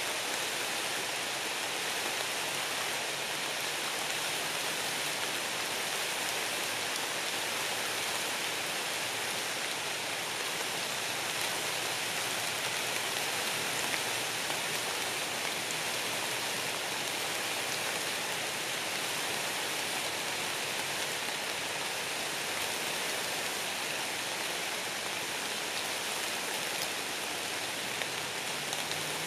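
Light rain falling on the leaves of a deciduous woodland: a steady, even hiss of drops.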